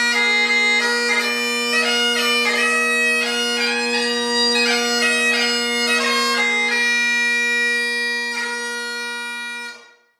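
Great Highland bagpipes in Royal Mexican Ebony, fitted with Ezee drone reeds and a blackwood chanter, playing a tune over steady drones. The tune ends on long held notes, and the drones and chanter cut off together near the end.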